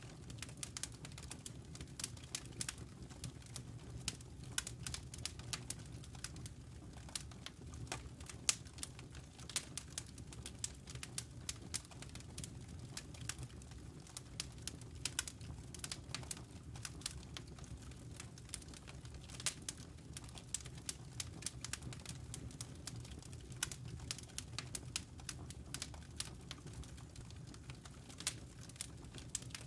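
Campfire burning: a steady low rumble of flames and embers with frequent irregular sharp crackles and pops of burning wood.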